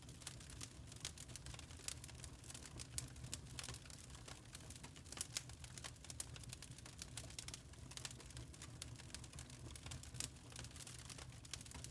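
Burning charcoal crackling: many small, irregular pops and ticks, a few sharper ones standing out, over a faint low steady hum.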